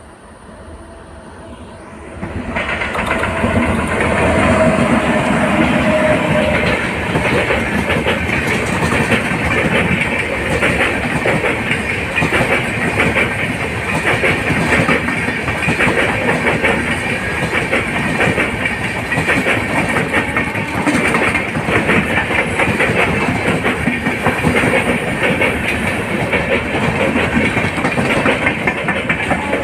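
Indian Railways superfast express passenger train passing close by, its coach wheels clattering over the rail joints. The sound starts quieter, then jumps suddenly to a loud, steady rattle about two seconds in and keeps going as the coaches roll past.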